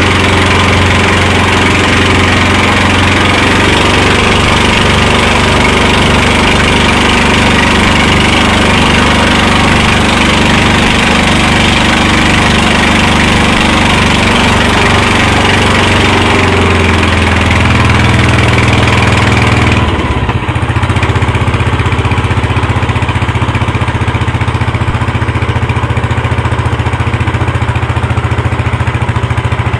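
Motorboat engine running steadily, with a loud hiss over it. About twenty seconds in the hiss falls away and the engine settles into a steady low note.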